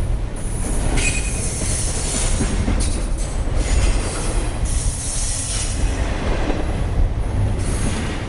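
A train rolling along the rails: a steady low rumble with a shifting rattle and hiss over it.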